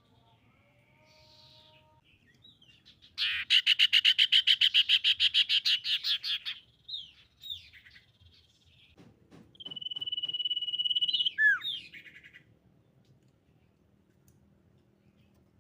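Common iora calling: a fast trill of about eight notes a second, then a few short whistled notes. After that comes a long steady whistle that ends in quick downward slurs.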